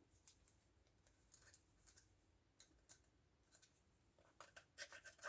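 Faint, scattered small clicks and scrapes of a chainsaw chain and bar being handled and wiped clean, growing busier near the end.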